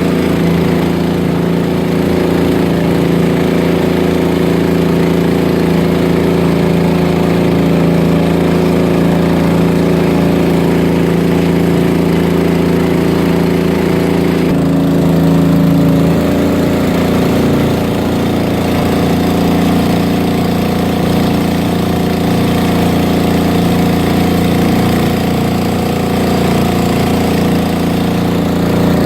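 Fishing boat's engine running steadily, its pitch shifting slightly about halfway through.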